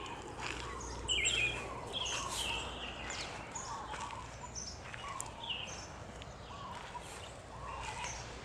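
Several birds chirping and calling, short repeated calls at different pitches over a steady outdoor background.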